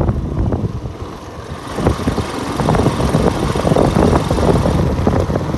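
Wind buffeting the microphone of a moving bike, with a rumble of riding noise underneath. It eases off about a second in and builds again a second later.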